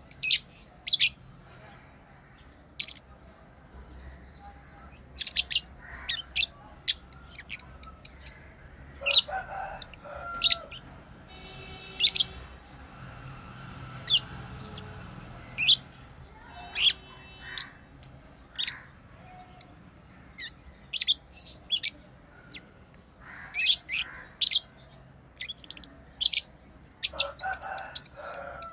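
Pet lovebirds chirping: many short, high, sharp chirps at irregular intervals, with a few lower calls mixed in.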